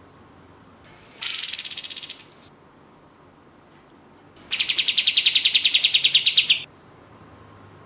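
Kapas tembak bulbul singing two fast runs of rapidly repeated high notes, about a dozen a second, like a rattle. The first run is about a second long, and a longer one of about two seconds follows after a short pause.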